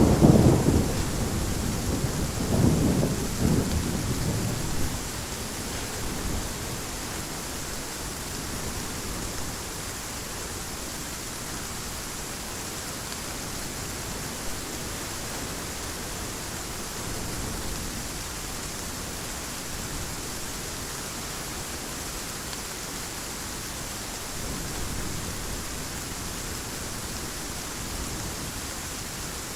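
Thunder rumbling over heavy rain, the rumble dying away within the first five seconds and leaving the steady hiss of the downpour.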